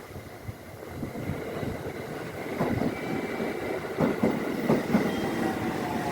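Train passing and growing louder, its wheels knocking over rail joints several times from about two and a half seconds in, with a thin high whine above.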